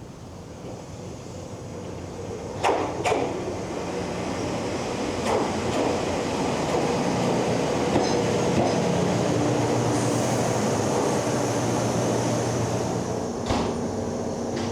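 Ohmi Railway train running, growing louder over the first several seconds as it gets under way. A steady rumble is broken by a few sharp clacks, two close together about three seconds in and one near the end.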